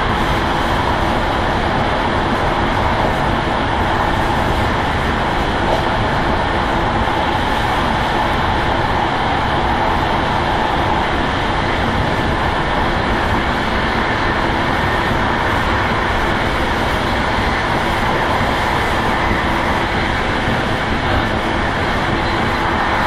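Steady running noise of an express passenger train at speed, heard from inside the train: the continuous rolling of wheels on the rails.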